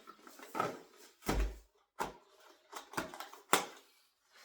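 Gift items and packaging being handled: a few short knocks and clicks with light rustling, including a dull thump about a second in and a sharper knock near the end.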